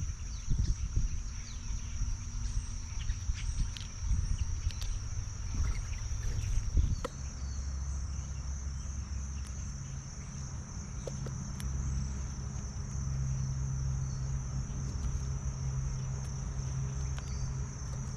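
Steady high-pitched insect chorus from late-summer crickets. Scattered clicks and knocks come in the first seven seconds, and a steady low hum starts underneath at about seven seconds.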